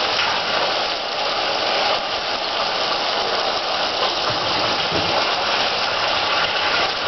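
Chicken and vegetable stir fry sizzling steadily in a frying pan, with water just added to the hot pan. The hiss stays level throughout.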